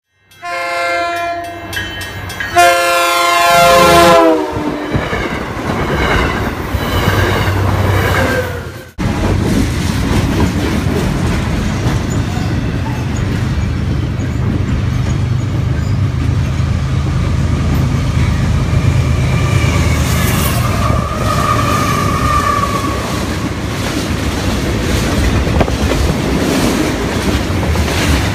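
A diesel locomotive's air horn sounds a chord whose pitch drops as it passes, then fades away. After a cut, a freight train's cars roll past close by with a steady rumble and clickety-clack of wheels on the rails, and a brief wheel squeal about two-thirds of the way through.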